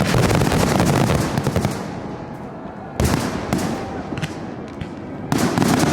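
Professional fireworks display finale: a rapid barrage of firework bangs and crackling, easing after about two seconds, with new loud volleys about three seconds in and again near the end.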